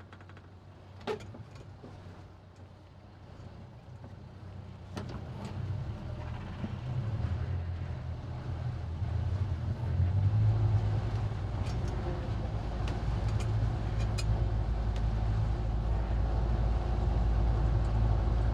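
Towboat engine being throttled up: quiet at first, then a low engine drone builds over several seconds and holds steady and loud, as the boat works against drift. A few light clicks in the first seconds.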